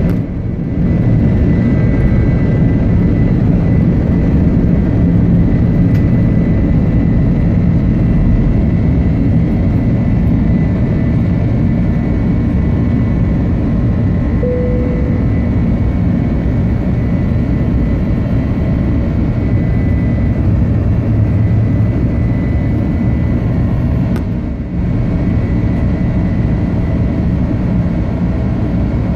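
Jet airliner's engines running at takeoff power: a loud, steady rush with a faint high whine over it, dipping briefly about 24 seconds in.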